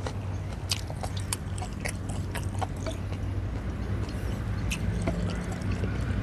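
Close eating sounds: chewing with irregular wet mouth clicks and smacks, and small taps of a wooden spoon on the plate, over a steady low hum.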